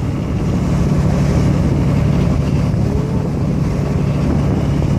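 Sightseeing boat's engine running steadily with a low drone, under a wash of wind and water noise.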